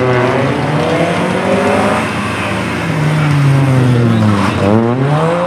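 Rally hatchback's engine revving hard as the car is thrown around cones; the engine note climbs, sinks steadily to a low about four and a half seconds in, then climbs sharply again as the driver gets back on the throttle.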